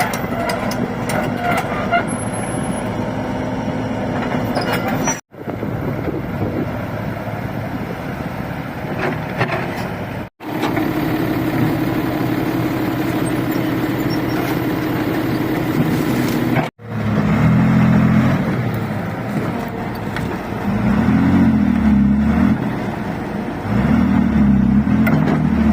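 Heavy diesel engine running steadily, cut into several short clips; in the last part it swells in three louder bursts, as if labouring under load.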